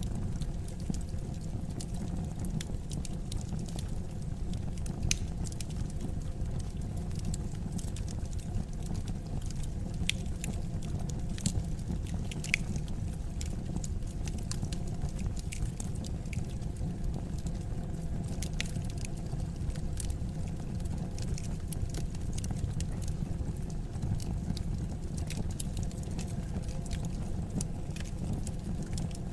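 Wood fire burning steadily with a low rumble, crackling and popping irregularly, a few sharper snaps among the smaller crackles.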